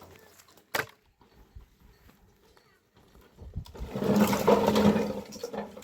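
A goat bleating, one long rough call of about two seconds starting past the middle, after a single sharp knock about a second in.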